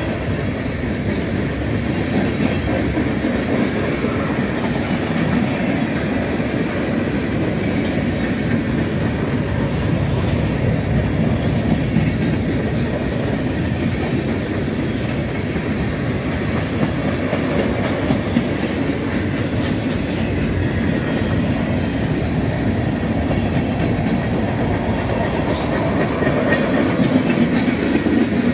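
Freight train of tank cars and covered hopper cars rolling past: a steady rumble of steel wheels on the rails.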